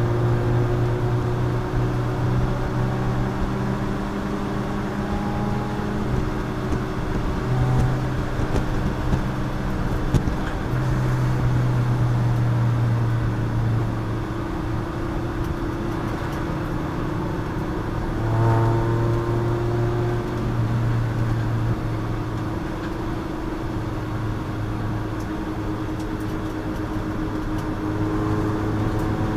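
Race car engine running hard on track, its note stepping up and down every few seconds.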